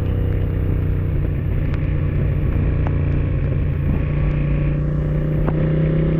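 Honda Africa Twin motorcycle engine running steadily while riding, its pitch creeping slightly higher through the second half, over a constant rush of wind and road noise.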